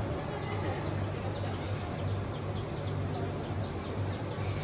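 Birds chirping: short, high, falling chirps repeated several times a second, over a steady low hum.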